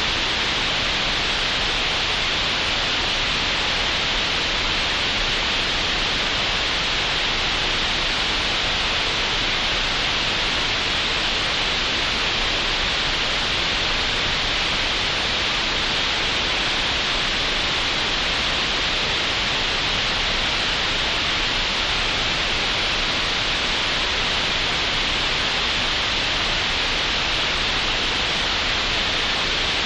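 Synthetic green noise generated in Audacity: a steady, unchanging hiss with no pauses or changes.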